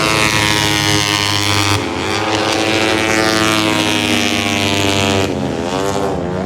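Moto3 racing motorcycles' 250cc single-cylinder four-stroke engines running at high revs past the track, the pitch shifting as the bikes change gear, with quick dips and rises in pitch near the end.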